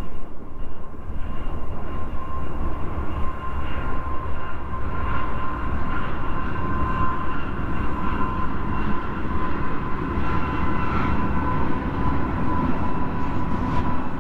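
A train running past on the railroad tracks: a steady, loud rumble with a steady high ringing tone over it.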